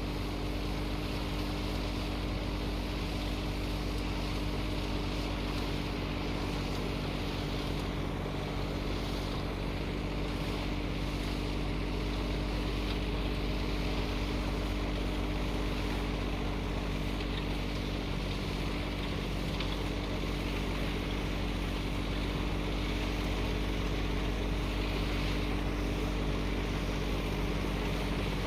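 Tractor engine running at a steady, unchanging speed, a constant low drone.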